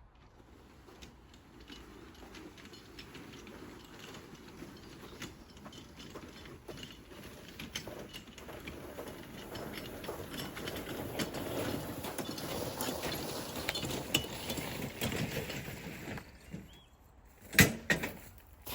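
Loaded garden trolley being wheeled over rough ground, its wheels rumbling and clattering and growing louder as it comes closer. Its back wheel is badly worn. The rolling stops suddenly, and a couple of sharp knocks follow near the end.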